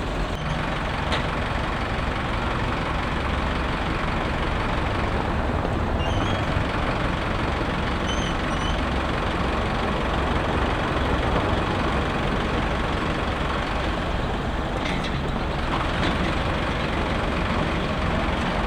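Tow truck engine running with a steady, even drone, and a few faint high chirps about six and eight seconds in.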